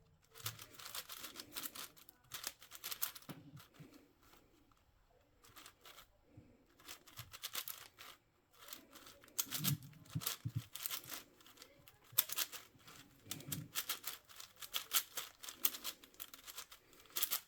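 Plastic puzzle cube being turned fast by hand: rapid runs of clicking layer turns in bursts, broken by short pauses between sequences.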